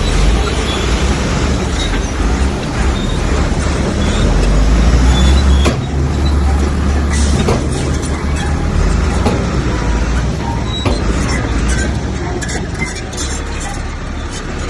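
Heavy diesel earthmoving machinery running steadily with a deep rumble, with a few sharp knocks in the middle.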